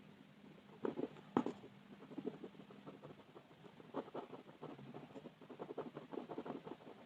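Rapid, close-up back-and-forth colouring strokes scratching on a paper page, with a couple of sharper taps about a second in.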